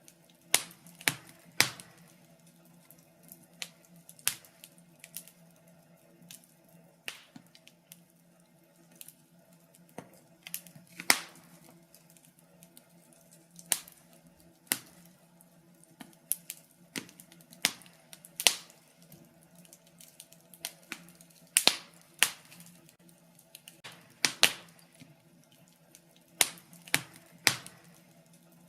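Fire in a fireplace crackling, with irregular sharp pops of varying loudness a few every couple of seconds over a faint steady low hum.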